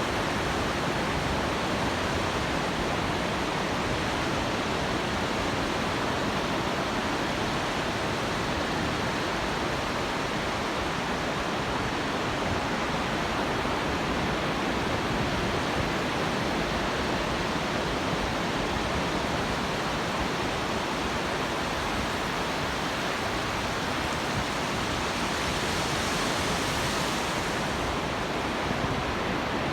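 Pacific surf on an open beach: a steady, even rush of breaking waves, with a brief brighter hiss near the end.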